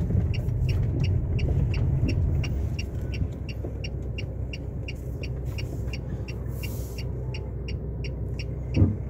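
A small bird repeating a short high call about three to four times a second, over a steady low rumble. There is a single soft knock near the end.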